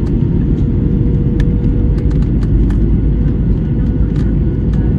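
Airliner cabin noise during the descent to land: a steady, loud low rumble of engines and airflow with a faint constant hum, and a few light clicks scattered through it.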